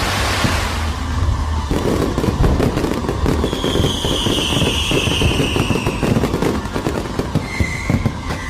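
Fireworks going off in a dense run of rapid pops and crackles from about two seconds in, with a high whistle held for a couple of seconds midway and a shorter whistle near the end.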